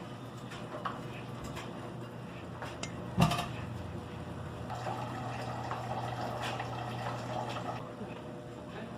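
Kitchen handling noises: scattered light clicks and a sharp knock about three seconds in, then a steady hum with a hiss for about three seconds.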